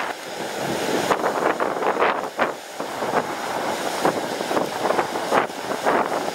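Strong gusty wind buffeting the microphone, a rough rushing noise with repeated sharp gusts.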